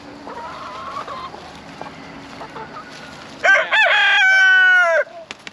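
Rooster crowing once, loud, about three and a half seconds in: two short rising notes, then a long held note that falls away at the end. Hens cluck softly before it.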